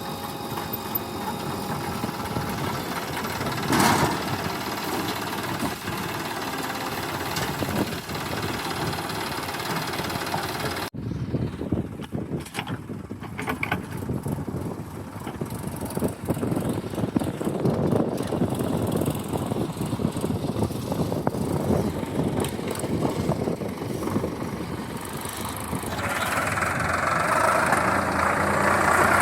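Diesel engine of a JCB 3DX backhoe loader running steadily at work, with a brief knock about four seconds in. The sound changes abruptly about eleven seconds in, and the engine grows louder near the end.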